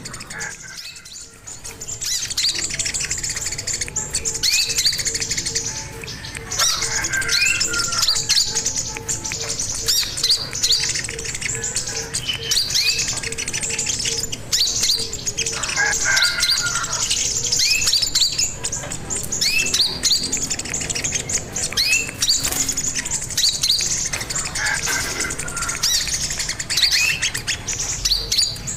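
Sogon bird singing: a steady stream of quick, high-pitched chirps and short trills. A faint pulsing low tone runs under it for the first half.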